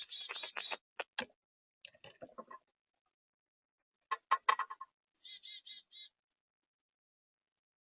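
Birds at a feeder: scattered sharp taps and knocks, then a quick harsh run of about six call notes about five seconds in.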